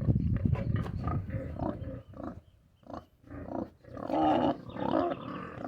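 Pigs grunting: a dense run of low grunts for about the first two seconds, then separate, louder drawn-out grunts.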